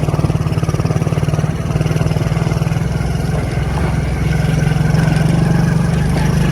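Motorcycle engine running steadily while riding, with a fast, even throb, getting a little louder past the middle.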